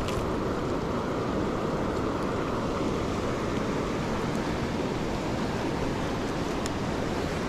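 Steady rush of water pouring over a river spillway, an even roar with a few faint ticks.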